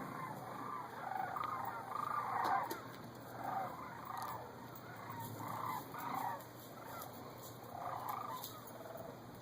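A large flock of migrating birds calling overhead: many overlapping calls that come in uneven waves about once a second.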